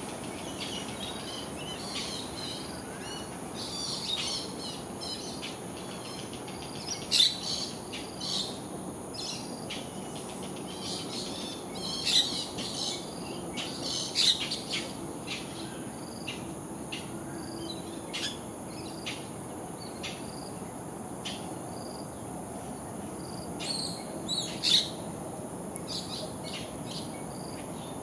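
Wild birds calling in short, repeated chirps, with a few louder, sharper calls scattered through, over a steady high-pitched insect buzz.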